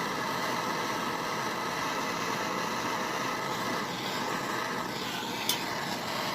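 Jeweller's soldering torch burning steadily with a constant hiss, heating a fluxed ring join as the solder flows. One short click near the end.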